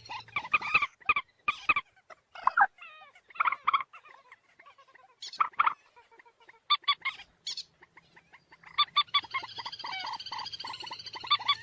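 Common moorhen calling: harsh, croaking calls, first singly and in short groups with sharp clicking notes, then a rapid run of calls near the end.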